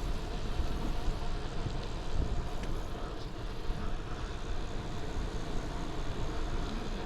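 Steady wind and road rumble picked up by a chest-mounted action camera's microphone while riding a folding bicycle.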